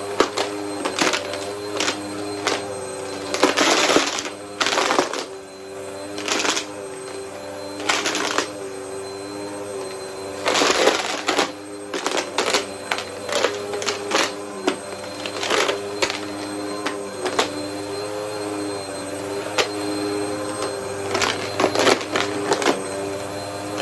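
Vacuum cleaner running while sucking up coins: a steady motor hum with frequent sharp clicks and short loud clattering bursts of coins being drawn in.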